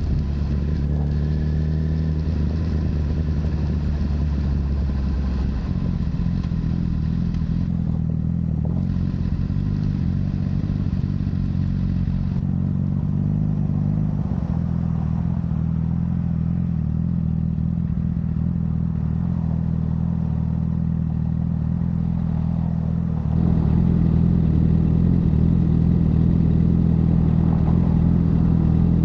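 Honda CBR1000RR inline-four engine through a Yoshimura full exhaust, running at steady revs, with the pitch shifting in steps a couple of times. About two-thirds of the way in it gets louder and rougher as the throttle opens.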